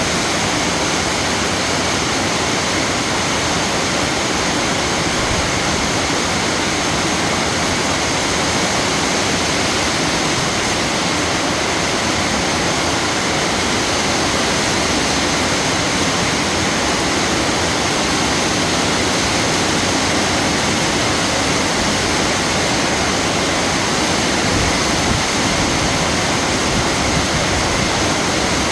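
Heavy rain falling in a steady, even downpour, a dense hiss with no breaks or changes.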